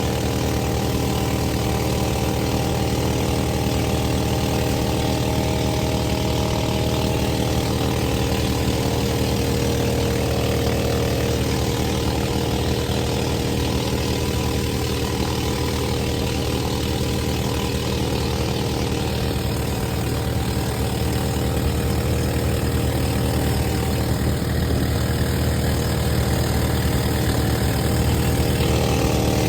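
An engine running steadily at constant speed, a drone that does not change.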